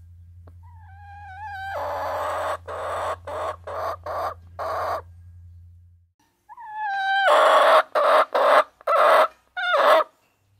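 A hen calling loudly, twice over: each time a short wavering note runs into a series of harsh, clipped squawks, and the second series is louder.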